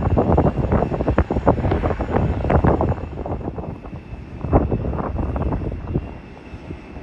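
Wind buffeting the phone's microphone in irregular gusts over the steady run of a jet airliner's engines, with a faint thin engine whine. The gusts ease about halfway through.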